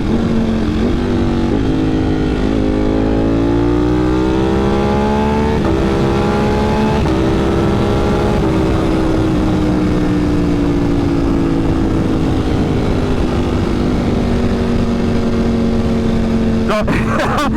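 Ducati Panigale V4 engine through a Competition Werkes GP race exhaust, accelerating hard. Its pitch climbs and drops back several times in quick upshifts, then eases off and falls slowly to a steady cruise.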